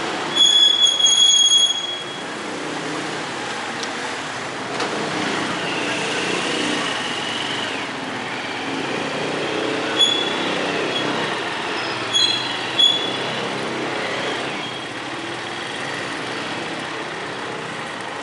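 Steady traffic noise of a vehicle on the move, with short high-pitched beeps near the start and again twice later, and a drawn-out high squeal about six seconds in.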